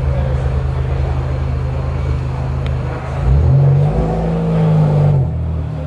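Car engine idling, then revved at about three seconds in, held up for about two seconds and dropped back to idle.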